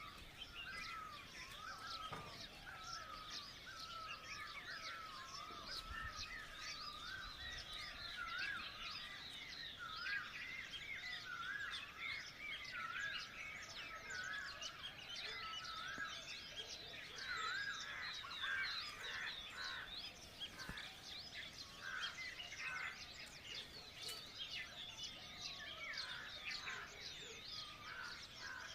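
Dawn chorus of many small birds chirping and warbling over one another without pause.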